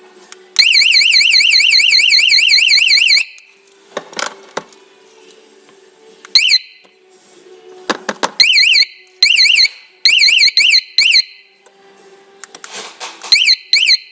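A 12V motorcycle anti-theft alarm's siren sounds a loud, fast-warbling high tone. It gives one long burst of about two and a half seconds, then a string of short chirps. Clicks and knocks come between the bursts.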